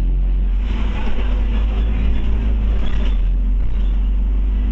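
Scania OmniCity bus's diesel engine running steadily, heard from inside the bus, with a continuous low hum and road noise.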